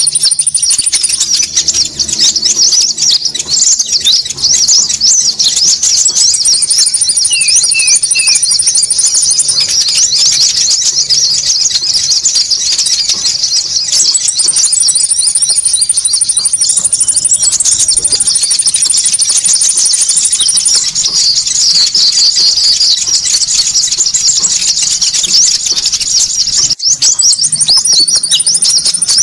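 Dense, continuous high-pitched chattering of many small birds, played as a lure call for konin birds. Several times a rapid, even trill sits above the chatter for a few seconds at a time.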